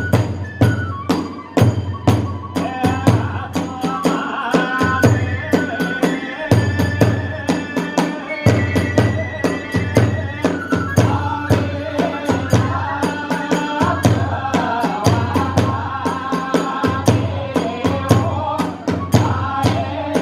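Kagura hayashi ensemble playing a brisk rhythm: rapid drum beats and clashing small hand cymbals under a wavering high melody line.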